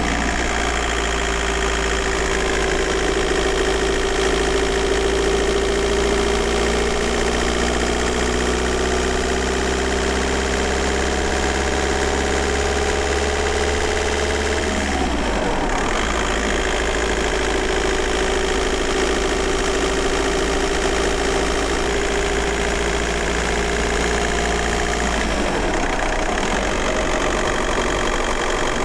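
VW Golf 4 1.9 TDI four-cylinder turbodiesel engine pulling the car along, its tone climbing slowly in pitch. It breaks off briefly about halfway through and again near the end, then carries on.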